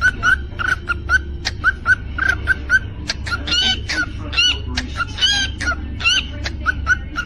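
Cockatiel chirping: a quick run of short, repeated chirps, with a few longer rising-and-falling whistled notes in the middle, among many sharp clicks, over a low steady hum.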